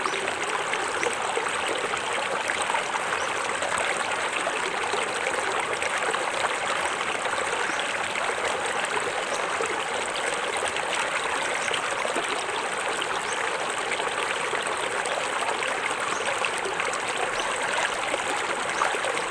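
Small waterfall splashing and running steadily into a forest stream.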